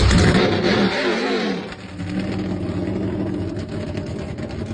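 A performance car's engine revving hard under acceleration, its pitch rising and falling through the gears for the first second and a half or so, then settling into a steadier, lower drone after a brief dip near two seconds.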